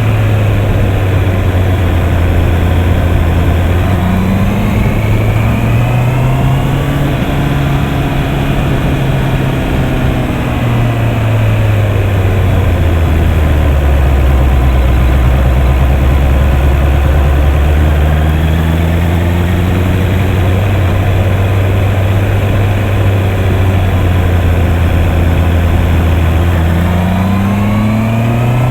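Honda CB650R's 649 cc inline-four engine running under way, its pitch rising and falling gradually as the rider opens and eases the throttle, dropping lowest about halfway through and climbing again near the end.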